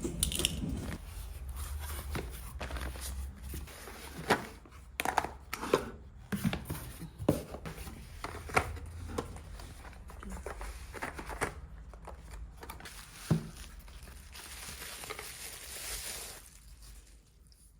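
Household handling sounds: irregular sharp clicks and knocks mixed with rustling and crinkling, with a hissing swell near the end.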